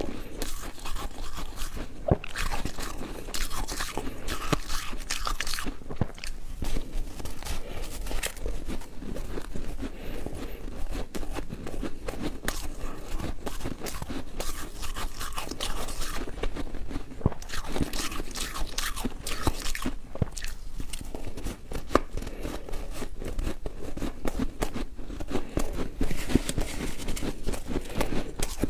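Ice being bitten and chewed close to the microphone: continuous crunching and crackling of ice cubes between the teeth, in clusters with brief pauses.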